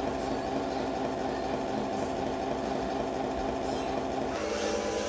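Remote-control Scania truck model running with a steady engine hum made of several even tones; the sound changes about four seconds in.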